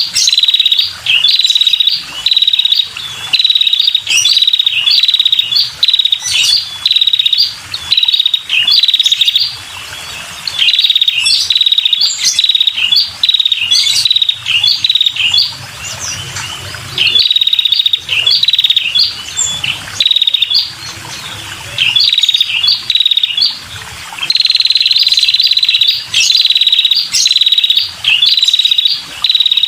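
Female red-headed prenjak calling busily: rapid, high chirping trills repeated in bursts of a second or two with short pauses between. This is the kind of call used to lure male prenjak.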